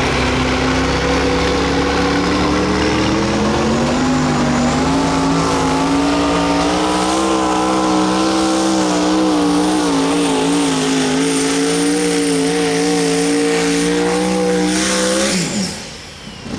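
Super modified two-wheel-drive pulling truck's engine at full throttle under load, its pitch climbing about four seconds in and held high with small wavers. Near the end the pitch and loudness drop sharply as the throttle comes off at the end of the pull.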